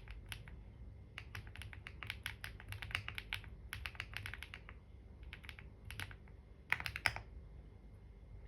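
Computer keyboard typing in short runs of quick keystrokes with pauses between them; the loudest flurry comes about seven seconds in, and the typing stops soon after.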